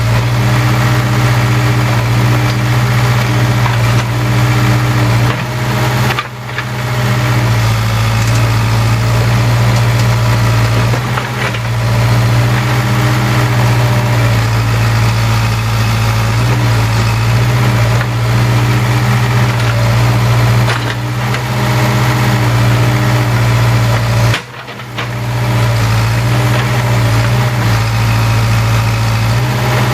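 Case 580K backhoe's four-cylinder diesel engine running at a steady speed, its drone dropping away briefly twice.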